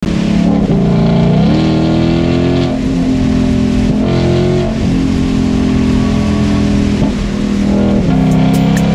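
Ford Shelby GT500's V8 being revved through a loud aftermarket exhaust, the pitch climbing about a second and a half in and holding, with several brief dips and pickups.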